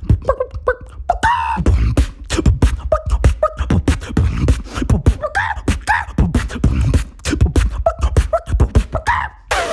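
Vocal beatboxing: a fast, dense run of mouth-made percussion, with deep kick-drum thumps and sharp clicks and snares, mixed with short pitched vocal squeaks. It breaks off briefly near the end.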